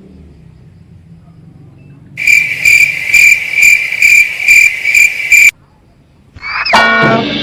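Railway level-crossing warning bell ringing in a fast even pulse, about two and a half strikes a second, for about three seconds before cutting off. Near the end a different loud pitched sound starts with a sliding pitch.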